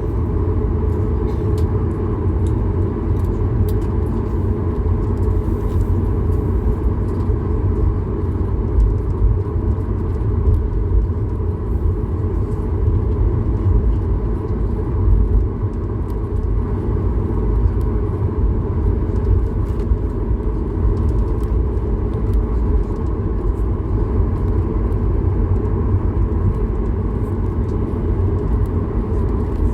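Steady low rumble inside the cabin of a Boeing 737-8200 MAX, from its CFM LEAP-1B engines, with a faint steady hum above it.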